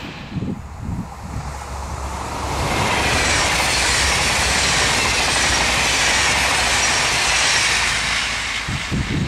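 Regional passenger train passing close at speed: the rush of wheels on rail builds a couple of seconds in and stays loud for about five seconds, with a faint high wheel squeal over it. Wind buffets the microphone near the start and the end.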